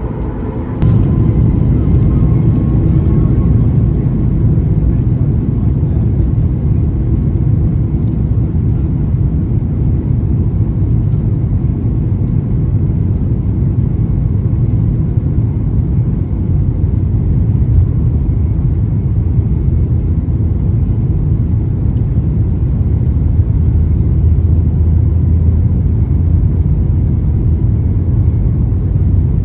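Boeing 737 MAX 8 cabin noise under high engine thrust during takeoff: a loud, steady low rumble of the engines and rushing air, which jumps up abruptly about a second in and then holds.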